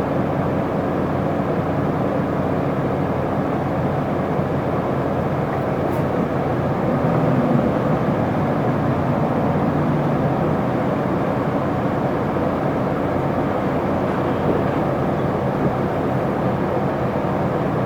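Isuzu Erga (PKG-LV234L2) diesel city bus running, its engine and road noise steady, swelling slightly about seven seconds in.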